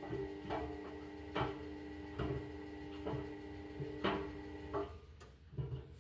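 Indesit washing machine's motor humming steadily while the drum turns slowly, with a knock about once a second. The hum stops about five seconds in, leaving a few light clicks.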